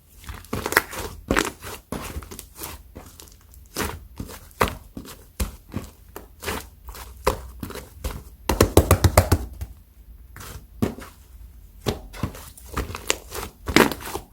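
Thick clay-mixed slime being pressed and poked by hand, giving a string of sticky clicks and pops. About nine seconds in comes a quick run of loud pops.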